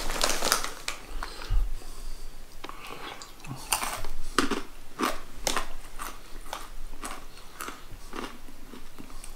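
Close-up chewing of crunchy garlic coated peanuts, about two crisp crunches a second. A brief rustle of a snack bag in the first second.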